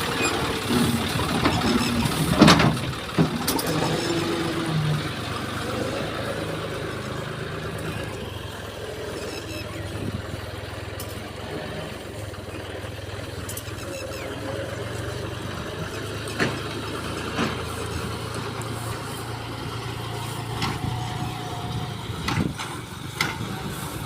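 A steady engine or motor drone, with scattered sharp clicks and knocks, the loudest about two and a half seconds in.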